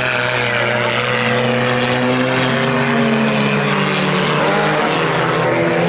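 Four-cylinder front-wheel-drive sport compact race cars running laps on a dirt oval, their engines making a steady drone that rises and falls in pitch as they go through the turns.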